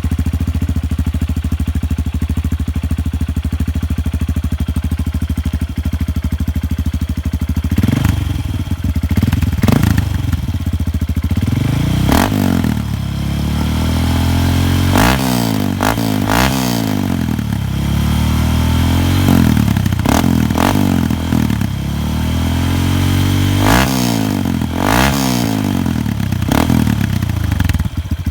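Honda CRF150L's single-cylinder four-stroke engine through a replica FMF exhaust pipe, idling steadily at first. About eight seconds in, the throttle is blipped again and again, each rev rising quickly and falling back to idle.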